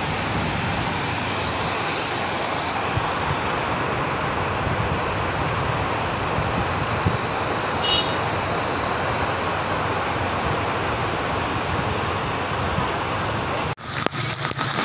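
Heavy rain mixed with hail falling in a steady, dense hiss. The sound cuts out for a moment near the end, then returns.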